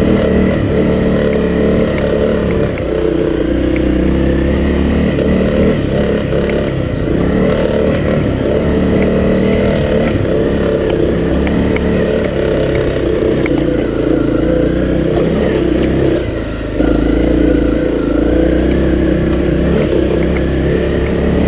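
Honda CRF250L's single-cylinder four-stroke engine running under load on a trail ride, its pitch rising and falling as the throttle opens and closes, with a short drop off the throttle about sixteen seconds in.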